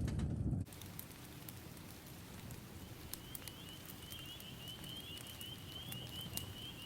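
Wood fire crackling with scattered sharp pops. About three seconds in, a high, fluttering whistle joins it and keeps going.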